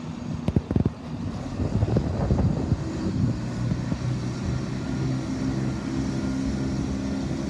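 Class 170 Turbostar diesel multiple unit's engines running as it gets ready to pull away, settling into a steady low drone after about three seconds. Strong wind buffets the microphone with heavy thumps near the start.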